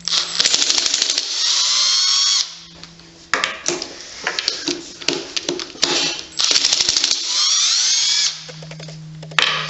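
Handheld power drill/driver run on the bolts of a small engine's side cover, twice: each run rattles briefly, then spins up with a rising whine as the bolt comes loose. Short metallic knocks from handling parts fall between the two runs.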